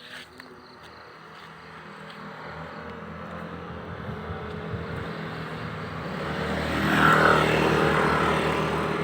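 A motor vehicle passing by: steady engine noise that swells to a peak about seven seconds in, then starts to fade.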